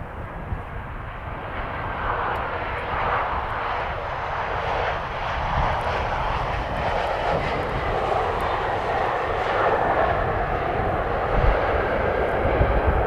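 Boeing 737-800's CFM56 turbofan engines on landing approach, the jet roar growing steadily louder as the plane draws nearer. Low rumbling strengthens near the end.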